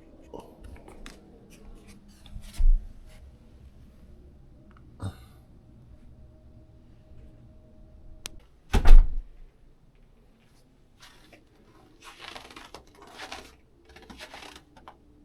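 Indoor handling sounds: two dull thumps, the louder about nine seconds in, among small knocks and clicks, with rustling near the end.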